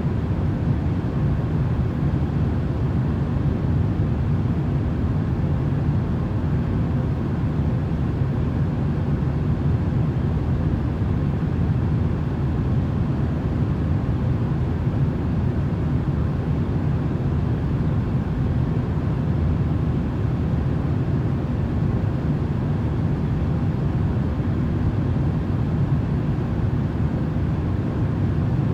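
Steady, unchanging low rumbling noise, a sleep-noise track, deepest in the bass and thin in the highs.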